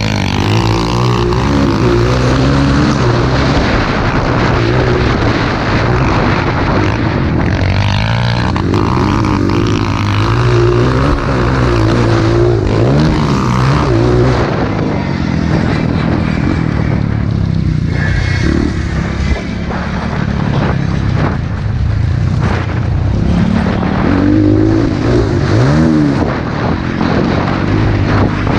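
Honda CRF230 dirt bike's single-cylinder four-stroke engine revving hard, its pitch repeatedly climbing and dropping as the rider accelerates, shifts and backs off around a motocross track.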